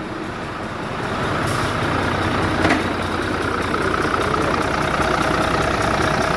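Volvo FH13 truck's straight-six diesel engine running, getting louder over the first couple of seconds and then running steadily, with one short click near the middle.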